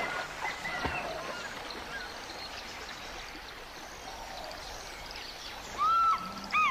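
Elephants bathing in water, a steady wash of splashing water noise. Short bird chirps come in near the end.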